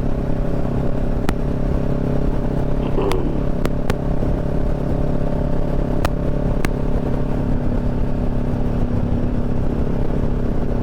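Motorcycle engine running at a steady cruising speed while riding, its pitch holding level, with a few sharp clicks in the first several seconds.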